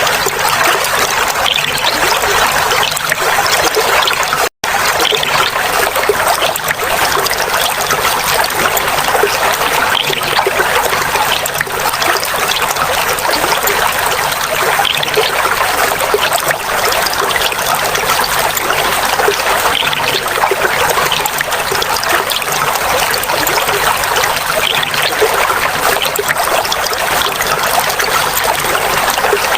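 Clear water flowing and trickling steadily, a continuous babbling rush. The sound cuts out for a split second about four and a half seconds in.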